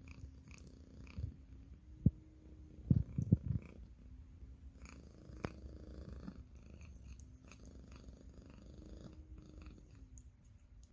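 A cat purring close to the microphone, with a few sharp thumps about two to three and a half seconds in.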